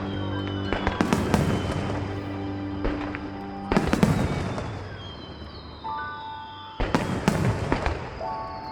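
Aerial fireworks shells bursting: loud bangs in three clusters, about a second in, near four seconds and around seven seconds, each trailing off in a rumbling echo. Music plays throughout.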